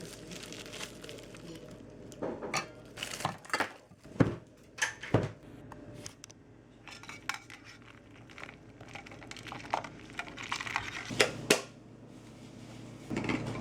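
Dishes and cutlery clinking as they are handled: a series of separate sharp clicks and knocks, a few grouped closely together about eleven seconds in.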